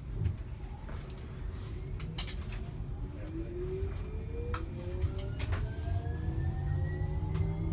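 TriMet MAX light-rail car pulling away from a stop, heard from inside: a steady low rumble with the electric traction drive's whine rising in pitch as the train accelerates. A few sharp clicks or rattles come through along the way.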